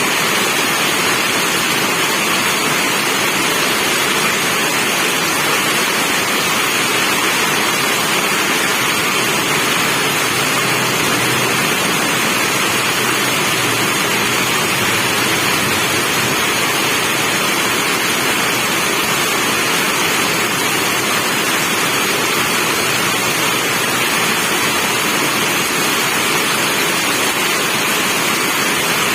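Steady heavy rainfall, an even dense hiss with no breaks or single drops standing out.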